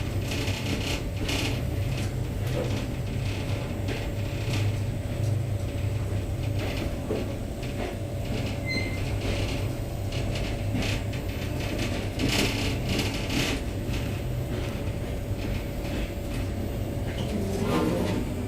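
Trans-Siberian passenger train running, heard from inside the carriage: a steady low rumble with frequent irregular rattles and creaks from the car.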